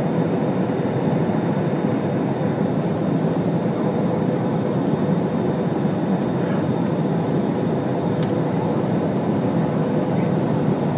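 Steady cabin noise of an airliner heard from inside: an even rush of engine and airflow noise with a faint steady hum through it.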